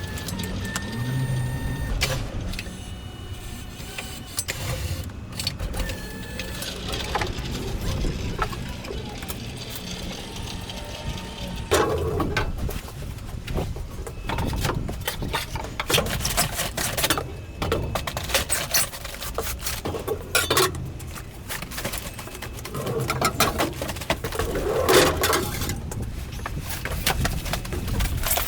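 Clattering, rattling and knocking of heavy boxed refrigerators being handled and moved during container unloading, with sharper knocks about 12 seconds in and again near the end. A few short, thin beeping tones sound during the first ten seconds.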